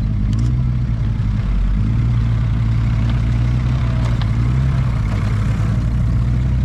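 Vintage open tourer's engine running steadily at low revs as the car drives slowly past, with a deep, even note and a small dip and pick-up in pitch.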